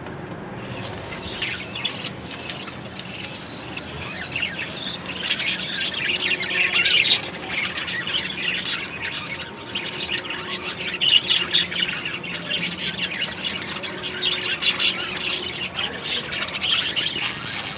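Budgerigars chattering and squawking in a dense run of short, quick calls, growing busier about five seconds in.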